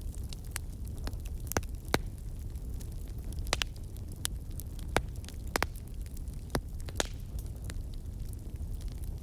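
Wood fire burning in a fireplace: a steady low rumble with irregular sharp crackles and pops, about one or two a second.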